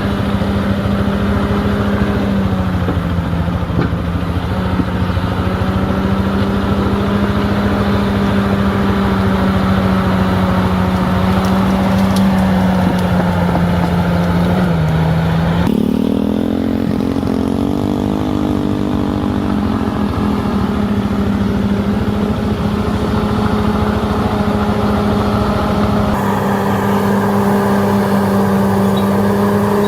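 Heavy diesel engine of earthmoving equipment running steadily at working speed, its pitch sagging briefly a couple of times as it takes load. The sound changes abruptly about halfway through and again near the end.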